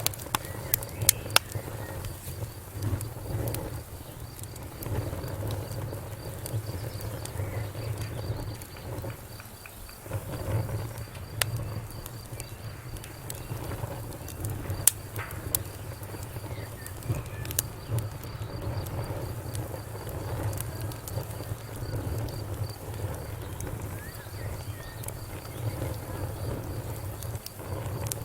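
Wood fire burning in a fireplace: a low steady rumble of flames with scattered sharp crackles and pops. A faint, high, evenly pulsing tone runs under it, pausing briefly past the middle.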